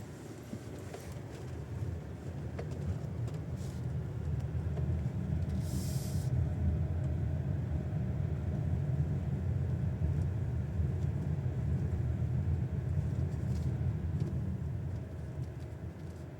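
Road rumble inside a GAC GS8 SUV's cabin while driving, building up over the first few seconds and easing off near the end. A few faint sharp knocks are heard, and there is a brief hiss about six seconds in. The owner hears a sharp, ringing knock from under the steering wheel over bumps, when the car's weight rolls from side to side.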